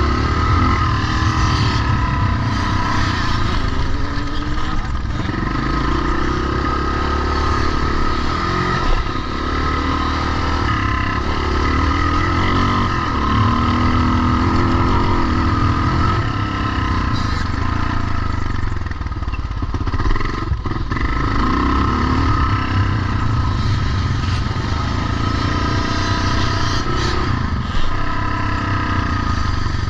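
Vintage motocross motorcycle engines running hard, their pitch rising and falling over and over as the throttle is worked, with a couple of brief knocks.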